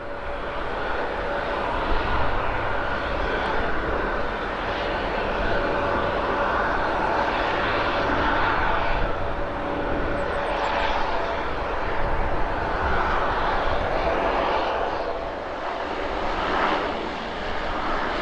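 Airliner jet engines running steadily, a continuous rush of noise with a faint steady whine.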